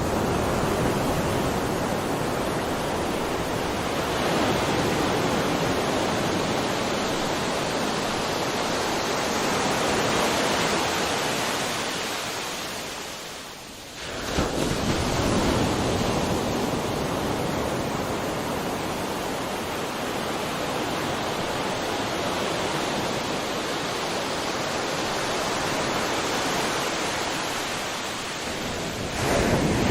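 Ocean surf: waves breaking and washing up a shore in a steady rush. The wash fades about halfway through, then a new wave breaks, and another breaks near the end.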